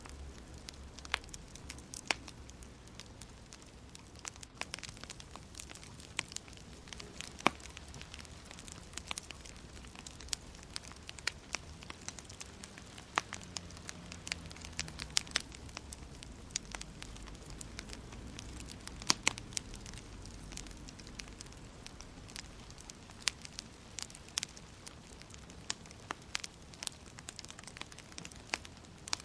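Wood fire in a fireplace crackling, with frequent sharp pops at irregular intervals over a low, steady rumble of burning.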